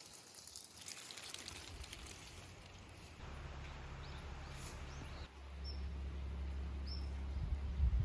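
Outdoor countryside ambience: a steady hiss of background noise with a few short, high bird chirps. A low rumble comes in about three seconds in and gets stronger a little past halfway.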